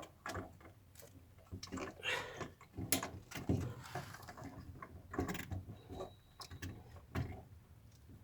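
Irregular clicks, knocks and light rattles of hard plastic and metal parts as a car's in-tank fuel pump assembly is worked loose and manoeuvred out past its gasket.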